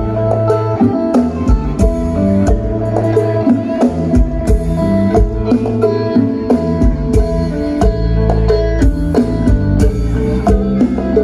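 Isan lam phloen band music: instrumental playing with plucked strings over a steady drum beat, without singing.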